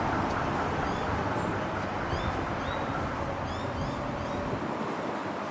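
Small birds chirping in short rising notes over the low rumble of a passing vehicle, which fades away about four and a half seconds in.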